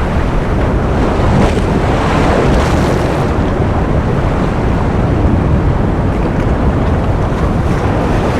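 Ocean surf: a continuous dense rush of waves, with the hiss swelling brighter about one to three seconds in and then settling.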